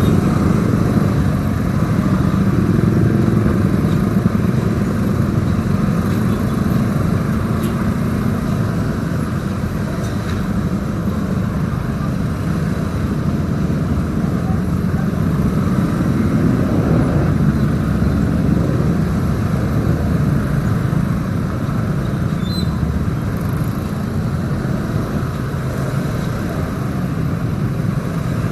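Motorcycle running steadily while riding, its engine mixed with a dense low rumble of road and wind noise on the microphone.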